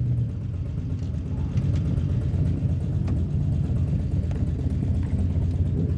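Honda CBR250RR parallel-twin engine running at low, steady revs through its aftermarket Leovince exhaust, a low, even rumble with no clear revving.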